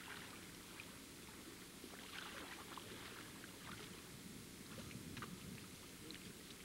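Faint lapping and small splashes of shallow water, a scatter of soft ticks over a low hiss.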